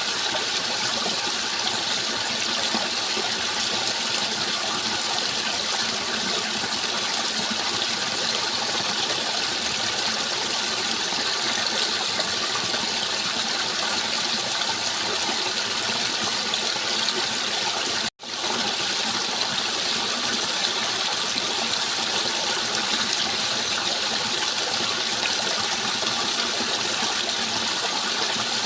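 Steady rushing water, an even, unbroken wash of sound. About two-thirds of the way through it cuts out for an instant and comes straight back.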